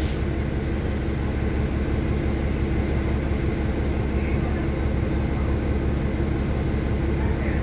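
Steady low drone of a bus's engine and running noise, heard from on board, with a short click at the very start.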